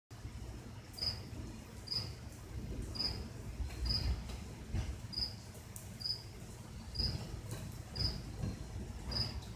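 A cricket chirping in a slow, even rhythm, one short high chirp about every second, over a steady low rumble.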